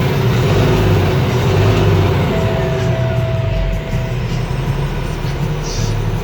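Cummins ISX inline-six diesel truck engine running steadily, heard from inside the cab, a little louder in the first couple of seconds and easing off after about four seconds. A steady single tone sounds for about two seconds in the middle.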